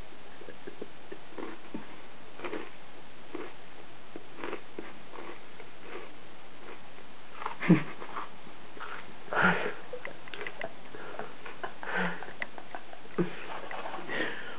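Close-up chewing of Froot Loops cereal: a scatter of short crunchy mouth sounds, a few louder ones from about halfway through.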